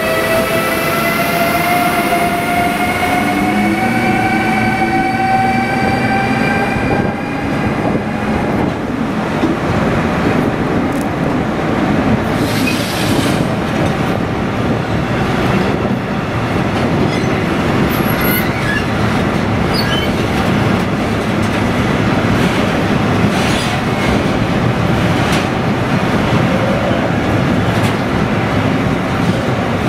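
A pair of electric locomotives passes close by. Their electric whine rises slowly in pitch and fades out about eight seconds in. A long train of freight hopper wagons follows, rolling past with a steady rumble of wheels on rail and an occasional click.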